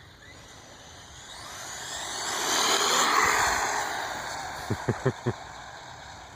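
Electric 1/10-scale RC car making a high-speed pass, its motor and tyres whining louder to a peak about three seconds in, then fading as it runs away.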